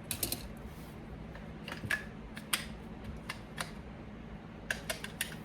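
Scattered light clicks and taps of a tool bit set's plastic packaging and small metal parts being handled and opened, irregular and a fraction of a second apart, over a faint steady hum.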